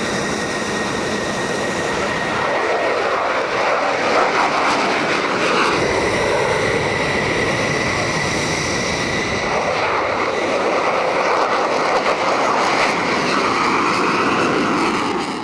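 F-16 Fighting Falcon jet engine running loud and steady: a dense rush of jet noise with a thin, steady high whine over it.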